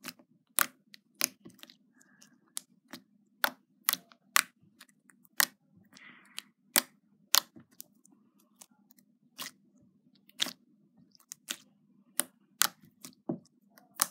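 Slime being poked and pressed with fingers, giving off sharp clicking pops at an uneven pace of about one to two a second.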